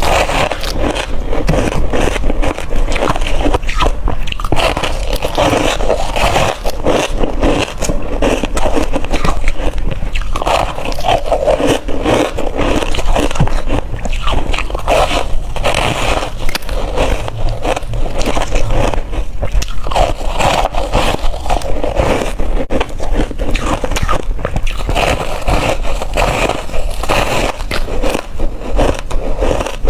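A person biting into hard crushed ice: a dense, unbroken run of crisp crunches and cracks.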